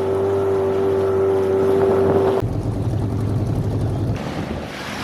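Boat engine running steadily at a constant pitch while under way. About halfway through it changes abruptly to a lower, rougher engine rumble.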